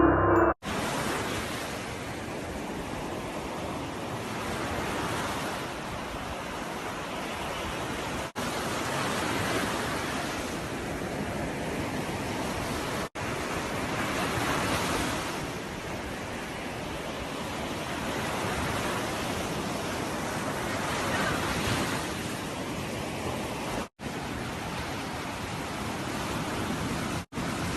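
Steady rushing noise, like wind or surf, swelling and fading every few seconds and cut off for an instant four times.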